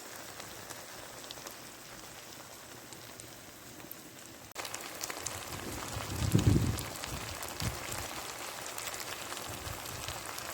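Beef strips sizzling in a wrought-iron skillet over a wood stove: a steady crackling hiss that jumps louder about halfway through, with a couple of low thumps.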